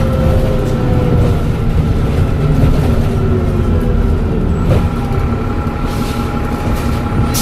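Dennis Trident double-decker bus running with a heavy engine rumble and a steady high turbo whistle. A lower whine slowly falls in pitch early on, and another steady whine starts a little past the middle.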